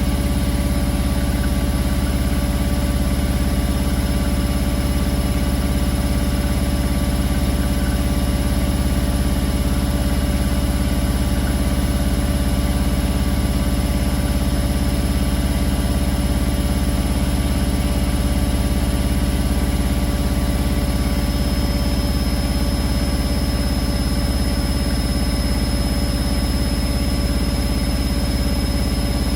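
Beko WA 1050 front-loading washing machine spinning at a steady high speed: a loud, even hum and whir with a deep drone and a few steady tones, unchanging throughout.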